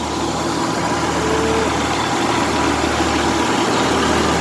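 Diesel engine of a crawler excavator running steadily at a low, even speed.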